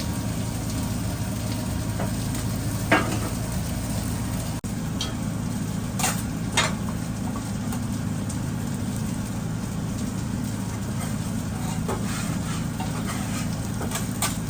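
Food sizzling as it fries, a steady hiss over a low hum, with a few sharp clinks of a utensil against the pan.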